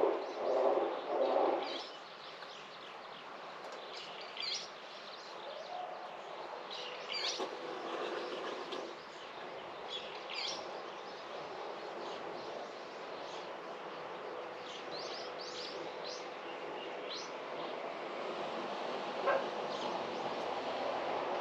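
Birdsong in a garden: low repeated cooing notes for the first two seconds, then short high chirps of small birds on and off over a steady outdoor background noise.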